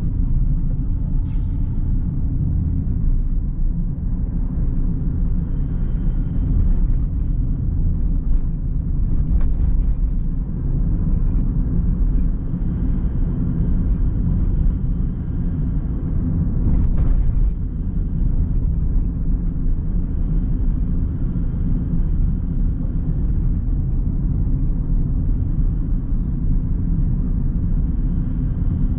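A car on the move: steady, low road and engine rumble, with a few faint brief ticks.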